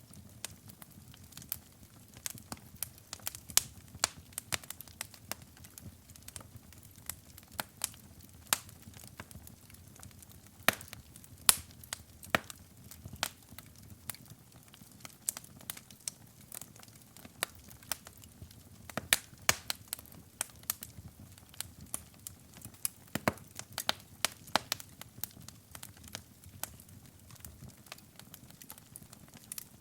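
Wood fire crackling and popping: many sharp, irregular snaps several times a second over a low, steady rumble of the flames.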